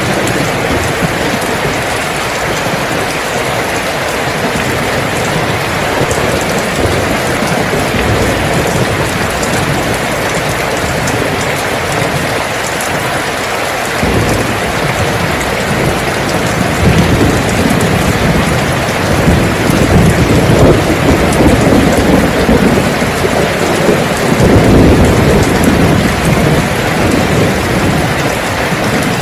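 Steady heavy rain falling. About halfway through, a low rumble of thunder comes in, swelling louder and rolling on through the latter part.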